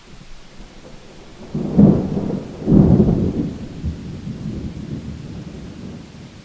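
A thunderclap over steady rain: a low rumble builds about one and a half seconds in, peaks in two loud surges a second apart, then rolls away and fades over the next few seconds.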